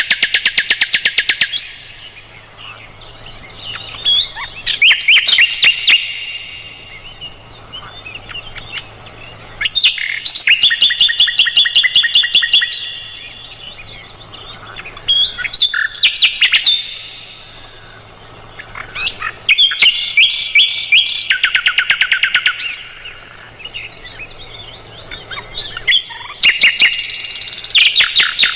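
Sikatan londo flycatcher singing. Its phrases come every few seconds and are fast trills of sharp, repeated high notes.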